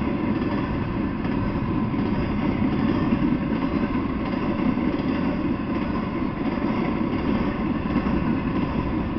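Intermodal freight train's container and trailer flatcars rolling slowly past, a steady low rolling noise of wheels on rail.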